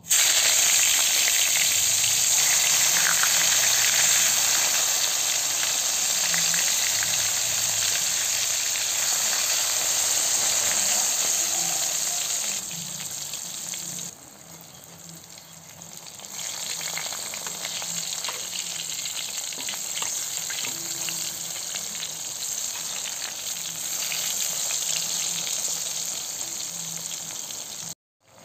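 Tempe slices sizzling as they deep-fry in hot oil in a wok. The sizzle drops quieter about 13 seconds in and picks up again a few seconds later.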